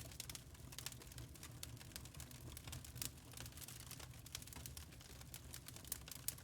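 Campfire crackling: quick, irregular pops and snaps of burning wood over a faint low rumble.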